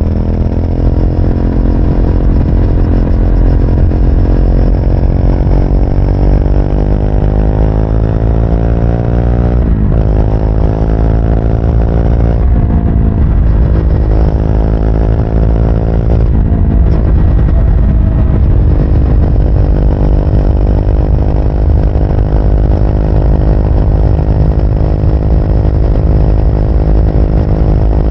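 Triumph Speed 400's single-cylinder engine pulling hard through the gears. The pitch climbs, then drops sharply with an upshift three times in the first half, then settles into a steady cruise, with a drop near the end.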